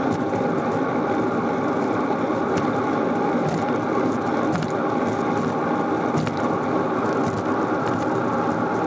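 Steady rolling noise of a bicycle in motion on pavement, with a few faint clicks.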